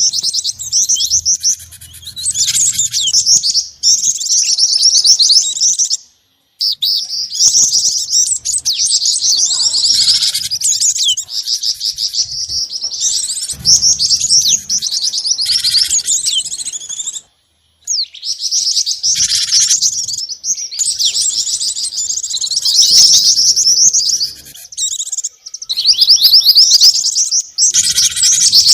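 Songbird lure recording: rapid, high chirping and trilling from small birds, mixing gelatik batu (cinereous tit), jingjing batu and mantenan calls, looped with a couple of abrupt silent breaks where clips are joined.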